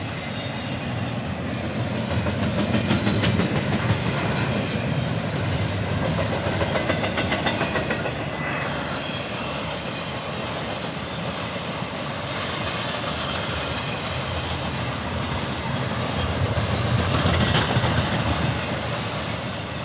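Intermodal stack train's freight cars rolling past, a steady rumble with wheels clicking on the rails, louder in stretches as heavier cars go by.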